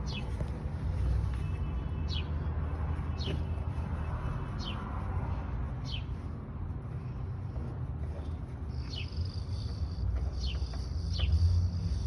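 A bird calling with a short falling chirp about once a second, coming quicker near the end, over a steady low rumble.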